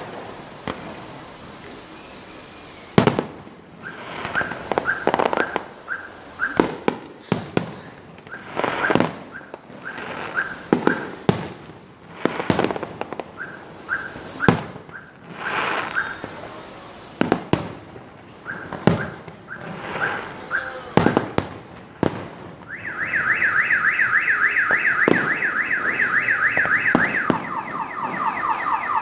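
Fireworks going off in a run of sharp bangs, with a car alarm sounding through them: short repeated chirps at first, then a loud, fast warbling tone about three-quarters of the way in that shifts to a lower pitch near the end.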